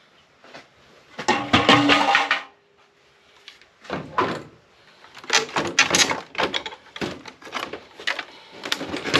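Clattering, knocking and scraping of plastic and metal parts as a UPS battery backup unit is taken apart by hand. It comes in irregular bursts: one about a second in, a short one near four seconds, and a busier run from about five seconds on.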